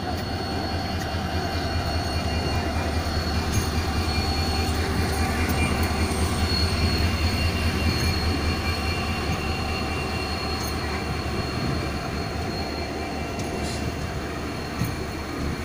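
Train running along the rails, heard from on board through an open window: a steady rumble of wheels and carriage with a thin high wheel squeal over it, a little quieter in the second half.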